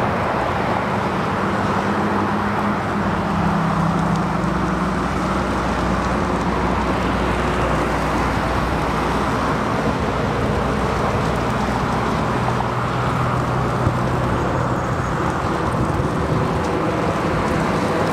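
Steady engine noise over a continuous rumble, with a low hum that shifts slightly in pitch.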